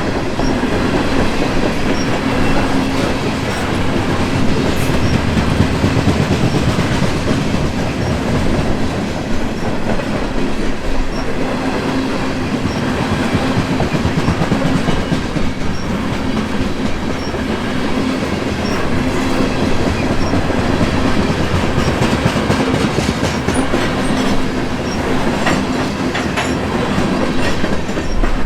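Grain train of freight cars rolling past close by: a steady rumble of wheels on rail with clickety-clack as the wheels cross rail joints.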